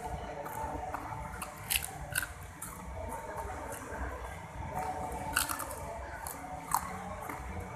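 Close-up wet chewing and biting of crispy fried catfish eaten by hand, with sharp crunches about two seconds in and twice more in the second half.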